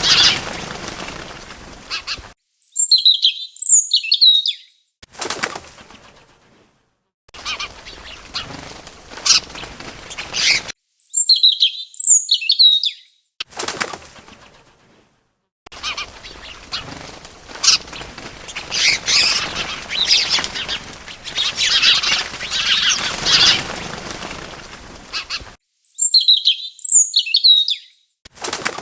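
Small birds: stretches of fluttering wingbeats alternating with a short phrase of quick, high chirps, which comes three times in silence between the flutters.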